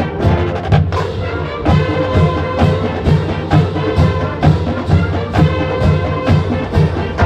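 Marching band playing: sustained brass chords over a steady drum beat of about two strokes a second.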